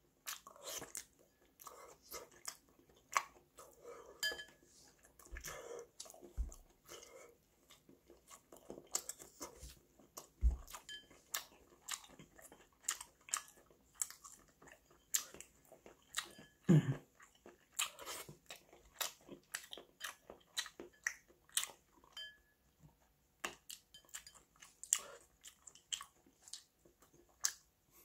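Close-up chewing of soft Korean blood sausage (sundae): irregular wet mouth clicks and smacks throughout, with a few dull low thumps in the first half.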